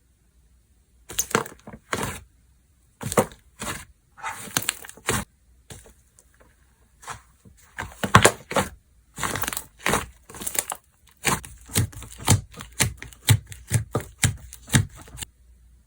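Hands squeezing and poking slime, giving an irregular run of sharp crackling pops and clicks, some in quick clusters.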